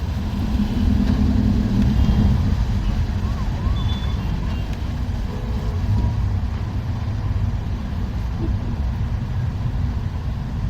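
Steady low rumble of a moving bus, its engine and road noise heard from inside the cabin, swelling briefly about a second or two in.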